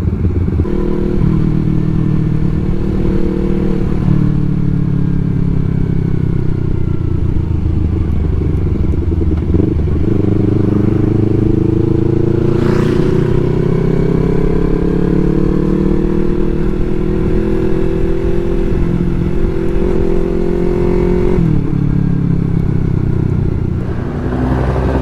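Yamaha R3's parallel-twin engine running on the move. Its pitch climbs slowly for several seconds as the bike pulls, then drops sharply a few seconds before the end, with one brief sharp noise partway through.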